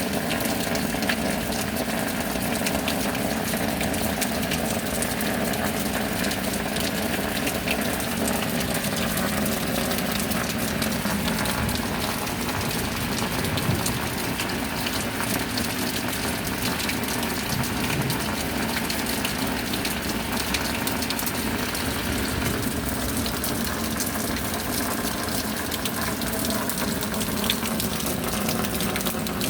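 Steady rain falling, a dense, even rush of water with no breaks.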